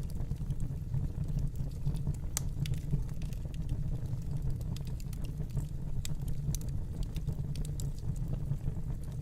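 Fireplace fire burning, with scattered crackles and pops over a steady low rumble.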